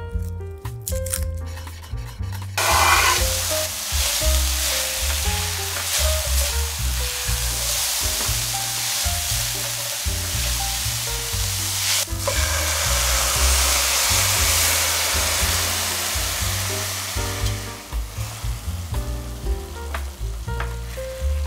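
Chopped vegetables sizzling in oil in a stainless-steel sauté pan as they are stirred with a spatula. A few knife chops on a wooden board come first, and the sizzle starts about three seconds in, swells about twelve seconds in, then fades near the end.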